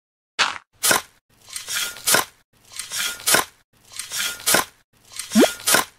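A shovel scooping and tossing dirt, over and over: a crunchy scrape ending in a sharp chop, about once a second. Near the end, a short rising squeak comes with each stroke.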